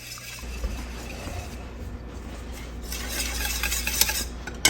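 A utensil stirring creamy chicken soup in a pot, with a continuous scraping and swishing that grows stronger about three seconds in and a couple of light clinks against the pot near the end.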